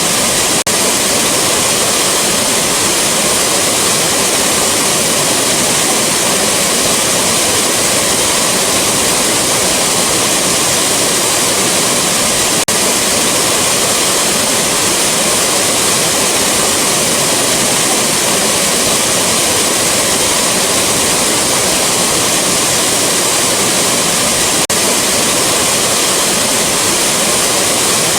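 Rushing waterfall: a steady, dense roar of falling water, with three faint clicks about twelve seconds apart.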